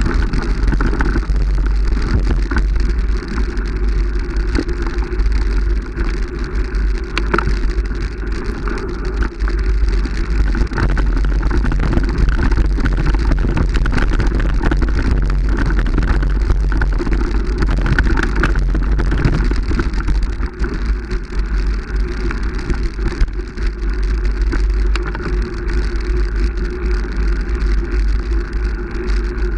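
Wind rushing on the microphone with constant clicking and rattling, the sound of a camera riding along on a bicycle over a rough track.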